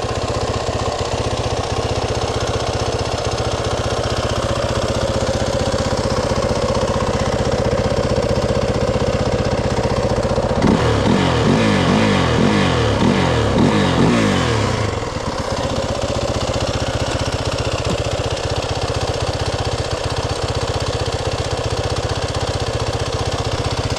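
Dirt bike engine idling steadily, left running to charge its battery. From about 11 to 15 seconds in, it is louder and its pitch rises and falls, as with a few blips of the throttle, before it settles back to idle.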